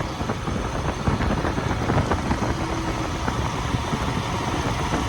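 Motorcycle engine running steadily with an even low rumble.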